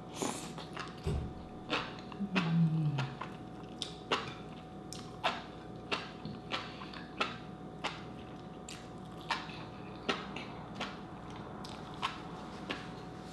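Close-miked chewing of boiled enoki mushrooms and rice: wet mouth clicks and smacks at irregular intervals, with a short low "mmm" about two seconds in.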